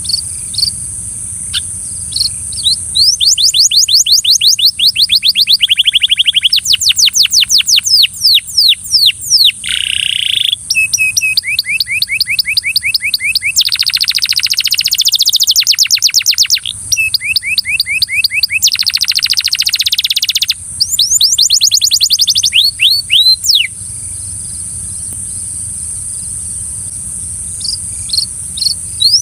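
Belgian canary singing: a long song of fast repeated notes, each run of quick sweeping notes lasting a second or two before switching to another trill, starting about three seconds in and thinning to scattered single chirps for the last few seconds. A steady high-pitched hiss runs underneath.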